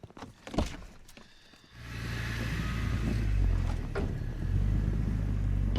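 An old Ford Bronco driving, its engine a steady low rumble that comes in about two seconds in, after a few faint clicks and a sharp knock.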